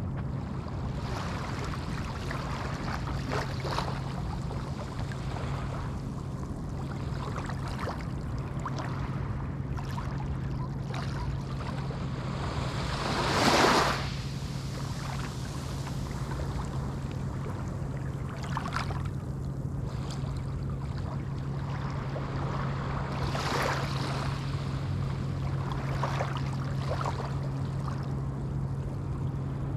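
Small Atlantic waves washing onto a sandy beach in a steady hiss, with many small surges and one louder wave breaking about halfway through. A steady low hum runs underneath.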